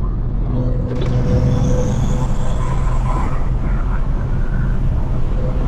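BMW 335i's N55 turbocharged inline-six running steadily under way, heard as a low exhaust rumble through a microphone mounted at the exhaust; it gets a little louder about a second in.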